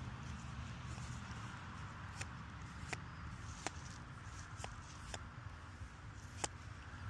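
Quiet outdoor background with a steady low hum, broken by a handful of sharp light clicks at irregular intervals about a second apart.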